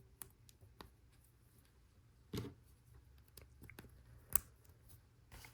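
Faint, scattered clicks and taps of plastic Lego Technic pieces being handled and pressed together, with a short rustle about two and a half seconds in and a sharper click about four seconds in.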